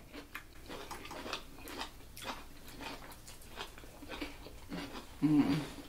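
Two people chewing and biting food close to the microphone: many small wet mouth clicks and crunches as they eat sliced cucumber, sausage and rice. A short hum from one of the eaters comes about five seconds in.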